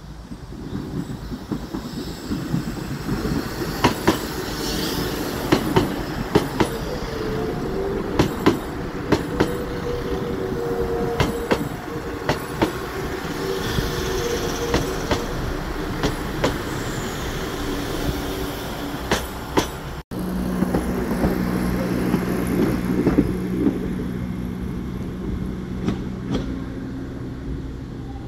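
A West Midlands Railway diesel multiple unit passing close by, running with a steady engine drone while its wheels knock sharply over the rail joints. After a cut about 20 seconds in, the small Class 139 Parry People Mover railcar is running, with a steady hum.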